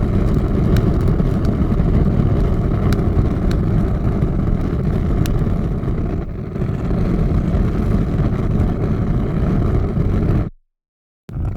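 Large fire burning with a steady low rush and a few sharp crackles. It cuts off abruptly about ten and a half seconds in, and after a second of silence another fire recording starts.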